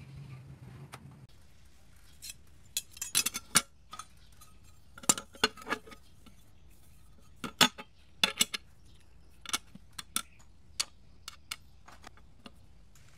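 Metal parts and tools clinking and clicking against each other in sharp, irregular strokes, with a cluster about three seconds in and more after five and eight seconds. A low hum stops about a second in.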